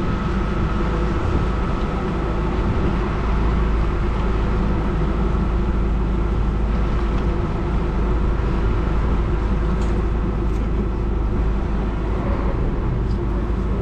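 A tour boat's engine running steadily at constant speed: an even low drone with a faint steady whine above it.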